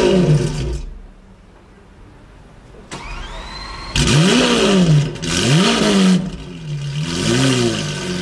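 Lamborghini Aventador V12 starting. A rev dies away in the first second, then after a short quiet the starter whines for about a second. The engine catches about four seconds in with a loud rev flare, blips twice more, each time less, and settles into a steady idle near the end.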